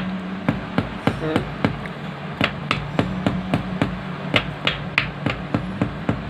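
Repeated light hammer taps, a few a second and unevenly spaced, seating a new crankshaft main oil seal into the housing of a Mahindra Jeeto diesel engine. A steady low hum runs underneath.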